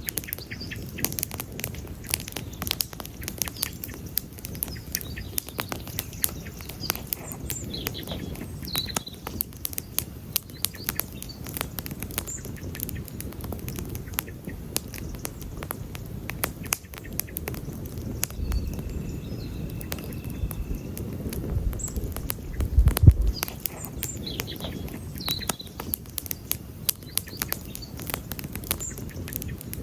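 Wood campfire burning, crackling with frequent sharp pops over the low steady rush of the flames, with a louder pop about 23 seconds in.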